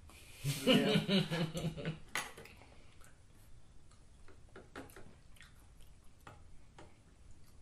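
Close-up eating sounds: soft chewing and small scattered mouth clicks and taps as sushi and edamame are eaten. A short vocal sound comes about half a second in and is the loudest thing.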